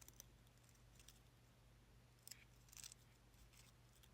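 Near silence with a low steady hum and a few faint light clicks and scrapes, a little after two seconds in and again near three seconds, from tiny miniature pieces being handled.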